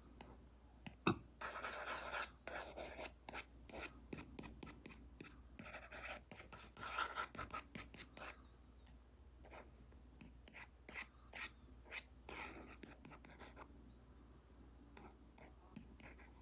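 Apple Pencil Pro tip stroking and tapping on an iPad's paper-like matte screen protector: scratchy drawing strokes, longest near the start and midway, with many quick light taps in between.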